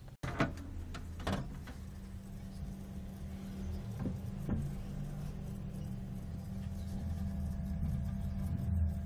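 Steady low hum of a running electric motor, with a few sharp knocks and taps in the first half.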